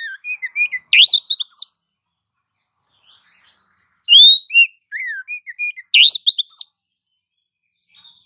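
Bird-lure recording of small-bird calls: a rising whistle, a few short downward-slurred notes, then a rapid burst of sharp chirps, with the whole phrase heard twice with short pauses between.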